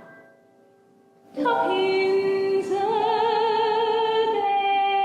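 Female singer with piano accompaniment: after a chord fades and a short pause, a new piano chord comes in about a second and a half in, and she holds one long note with vibrato over it.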